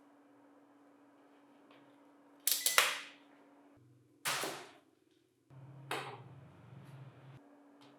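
Several sharp clacks and knocks of hard objects being handled on a work surface: a quick cluster of clicks about two and a half seconds in, then single knocks about four and six seconds in, over a faint steady hum.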